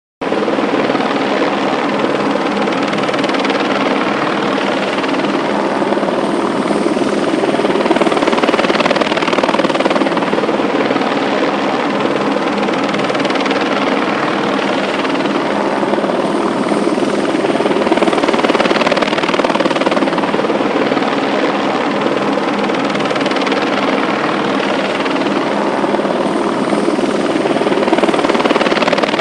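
A loud, steady machine drone with a constant hum. It cuts in abruptly at the start and holds throughout, swelling slightly every several seconds.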